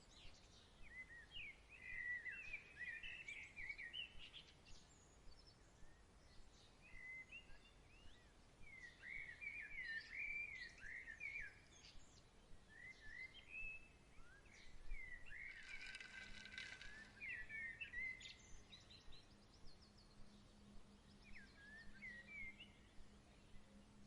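Faint evening birdsong: many short chirps and trills, with a denser burst of song about two-thirds through. A faint low steady hum comes in at the same point and continues.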